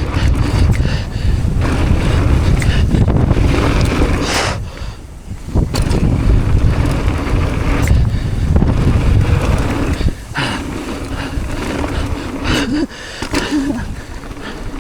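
Strong wind buffeting a helmet or action-camera microphone during a mountain-bike ride, with scattered clacks and rattles from the bike. The wind drops briefly about five seconds in.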